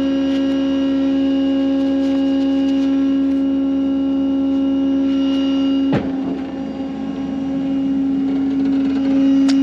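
Tow truck's engine running steadily, heard from inside the cab as a loud, even drone. There is one sharp knock about six seconds in, after which the drone drops a little and turns rougher.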